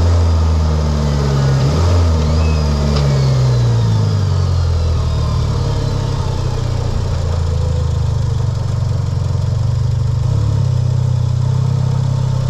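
Mitsubishi Lancer Evolution X's turbocharged four-cylinder engine, fitted with an aftermarket intake and exhaust, under way: the engine note climbs and drops twice in the first couple of seconds, as at gear changes, then holds a steady drone while cruising.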